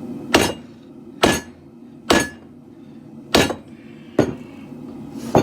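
Hand hammer striking a katana blade's steel on an anvil during forging: six blows about a second apart, some leaving a short metallic ring, over the steady rush of a propane forge's burners.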